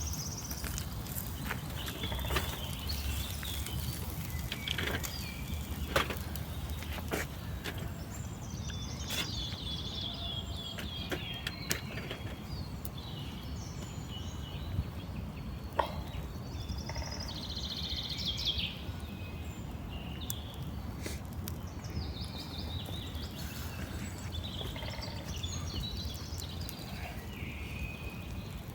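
Small birds chirping and trilling again and again over a steady low background hum, with scattered sharp clicks.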